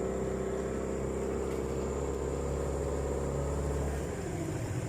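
An engine running steadily with a low hum, winding down about four seconds in as its pitch slides lower.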